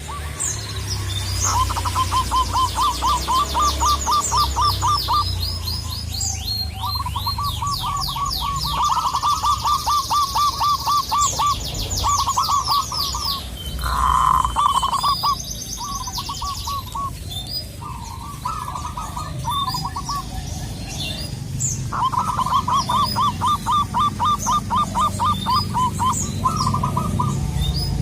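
Zebra doves (local perkutut) calling: phrases of rapid staccato cooing notes a few seconds long, repeated with short gaps. Higher, fast trills of other birds sound above them, over a steady low rumble.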